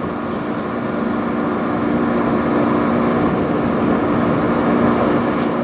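Jet airliner flying over low, its engines a steady rushing noise with a constant low drone underneath.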